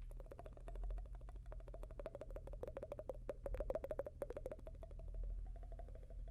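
ASMR mouth sounds close to the microphone: a fast, continuous run of wet mouth and tongue clicks, kept up without a break.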